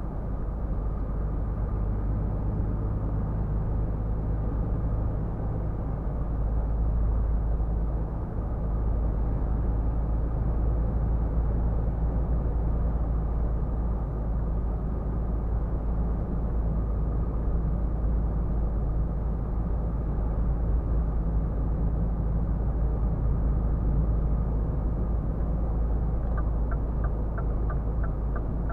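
A Scania R450 truck's 13-litre six-cylinder diesel cruising at steady highway speed, a constant low drone mixed with road and tyre noise. A fast, regular ticking starts near the end.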